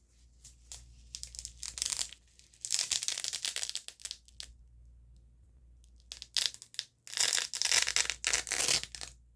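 ASMR 'grip' sounds: hands gripping and rubbing right at the microphone, making a crinkly, crushing scratch. It comes in two long bursts, one around three seconds in and one near the end, with a few soft clicks before the first.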